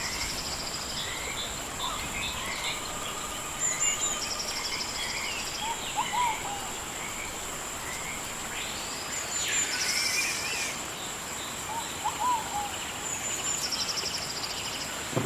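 Rainforest animal chorus: a steady high insect drone, with a short pulsing trill repeating every few seconds and scattered bird chirps and whistles, including a longer swooping whistle about nine seconds in.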